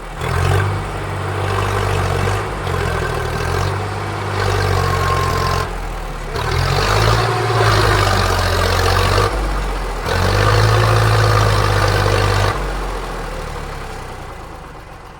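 Tractor engine running and revving, its pitch stepping up and down with brief drop-outs, then dying away over the last few seconds.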